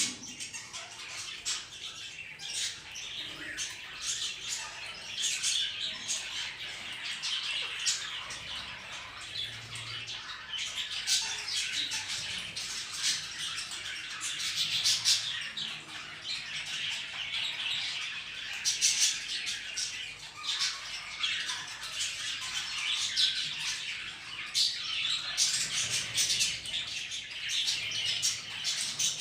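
Caged budgerigars and a parrot chattering, a continuous dense stream of short high chirps.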